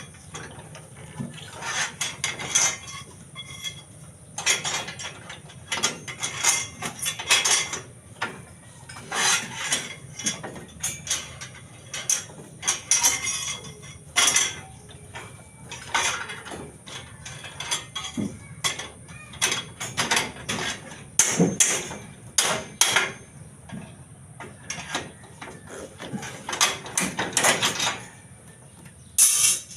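Steel reinforcing bar being worked by hand into rings for a concrete post, with many short, irregular metal clicks and clanks.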